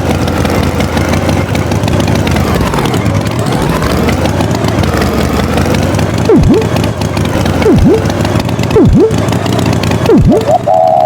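Cartoon tractor engine sound effect running steadily, its pitch dipping and recovering about a quarter of the way in. From a little past halfway come five short, quick sweeps down and back up in pitch, about one every second and a half.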